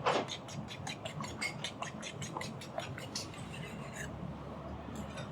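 An egg being beaten by hand in a bowl: the utensil clicks against the bowl in quick, even strokes about five a second, then stops about four seconds in.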